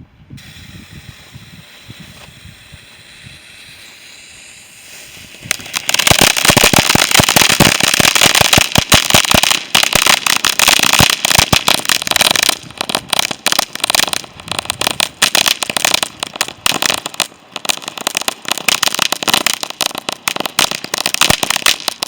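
A firework hisses quietly for about five seconds, then bursts into a long, loud run of rapid crackling bangs. The bangs come densely at first and in sparser clusters from about halfway, stopping abruptly at the end.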